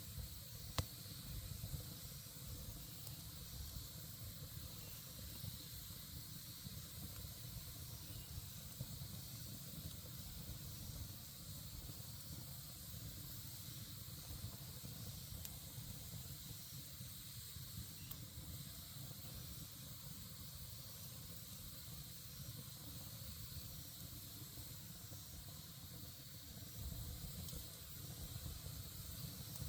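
Campfire burning with a faint, steady hiss and low rumble of flames, with a single sharp crackle about a second in.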